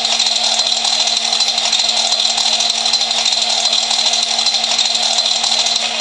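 Audi A6 V8 engine running at a steady speed, an even, high-pitched mechanical whir with no revving.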